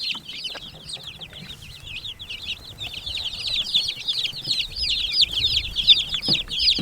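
A brood of young chicks peeping continuously, with many high chirps overlapping. The peeping grows louder from about halfway through.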